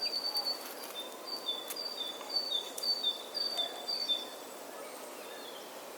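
Bird song: a run of short, clear whistled notes alternating between a higher and a lower pitch, about two a second, stopping about four seconds in, over a steady outdoor background hiss.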